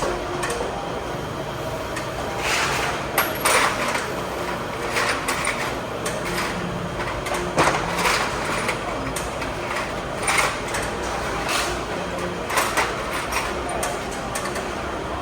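Irregular knocks and clatters of hands and tools at work, about eight sharper ones spread through, over a steady low hum.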